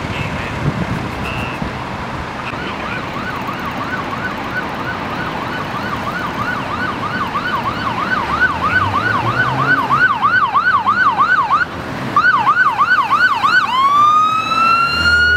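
Emergency vehicle siren in a fast yelp, sweeping up and down about three to four times a second and growing louder as it approaches, breaking off briefly before switching to a slow rising wail near the end. Vehicle and road noise run underneath.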